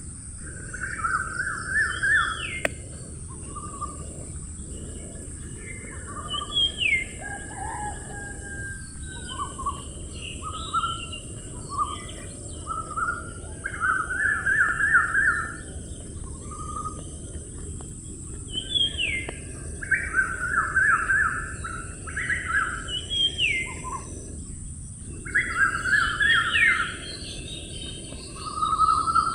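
Wild birds calling: repeated short, rapid trilled phrases and quick upswept whistled notes, coming in clusters every few seconds, over a steady high hiss and a low rumbling background.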